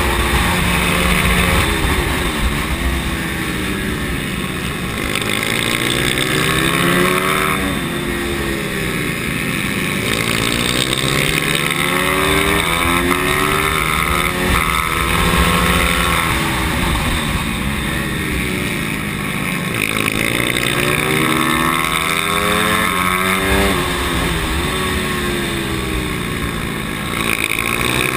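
Pit bike's single-cylinder four-stroke engine heard on board at race pace, revs rising and dropping over and over as it is worked up through the gears and backed off into the bends. Wind rushes over the microphone the whole time.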